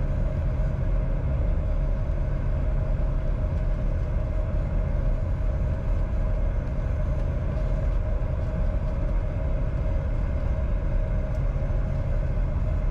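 Steady cockpit noise of a Bombardier Challenger 605 on final approach, heard from inside the cockpit: a low rumble of airflow and engines with a steady hum running through it.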